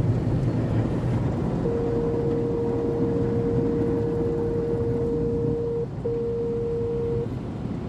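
Steady rumbling, rushing noise of automatic car wash machinery heard from inside the car. Over it, a single steady tone comes in about two seconds in, holds for about four seconds, stops briefly, then sounds for about another second.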